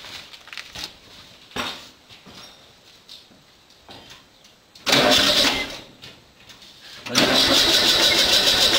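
Air-cooled Volkswagen 1500 flat-four with a Weber 32/36 carburettor being started, freshly refitted: a short burst of starter cranking about five seconds in, then a second, longer attempt from about seven seconds that keeps going.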